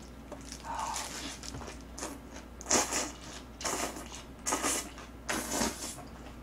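Close-miked wet chewing of green onion kimchi, coming in short bursts about once a second.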